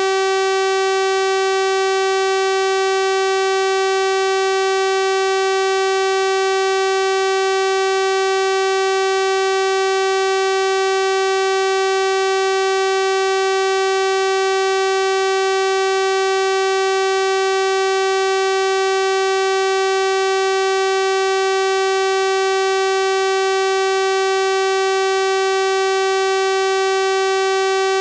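Synthesized 384 Hz sawtooth-wave test tone, a single steady buzzy pitch with a full ladder of harmonics, held unchanged.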